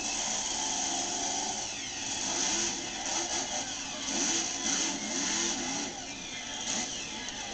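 Monster truck engines revving, their pitch rising and falling again and again over a steady wash of noise.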